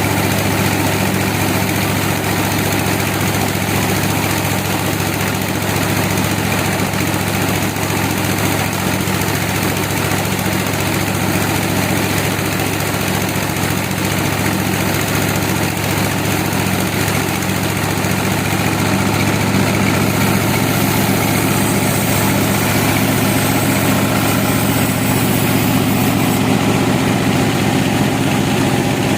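An engine, likely the sawmill's power unit, running steadily at an even speed, with a slight change in its note about twenty seconds in.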